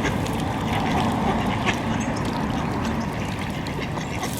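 Ducks quacking over a steady low rumble.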